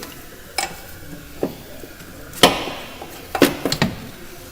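Several sharp knocks and clanks of hand tools and parts being handled, the loudest about halfway through and a quick cluster near the end. These are typical of work in an engine bay while taking off an engine mount.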